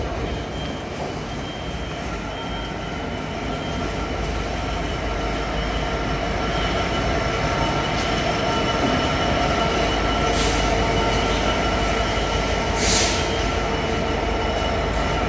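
Freight train hauled by a Class 66 diesel locomotive (EMD two-stroke V12) drawing slowly into the station to stop: a steady low engine and wheel rumble with a steady high squeal, slowly growing louder. Two short hisses come about ten and thirteen seconds in.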